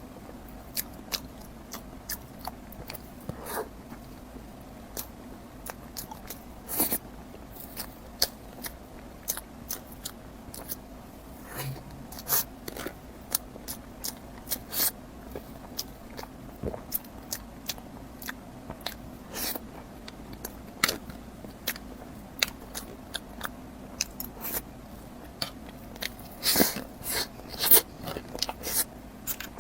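A person biting and chewing food close to the microphone, irregular sharp wet clicks and crunches of the mouth and food, with a faint steady hum underneath.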